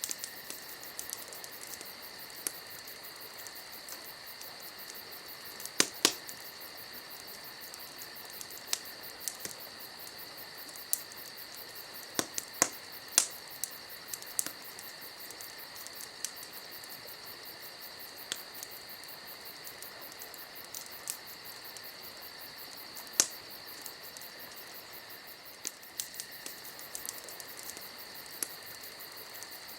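Campfire crackling, with scattered sharp pops from the burning wood, the loudest about six, thirteen and twenty-three seconds in. Under it runs a steady, high insect chirring.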